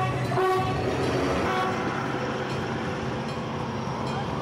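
Passenger train passing at close range, its horn giving a short toot about half a second in, then the steady noise of the cars rolling by.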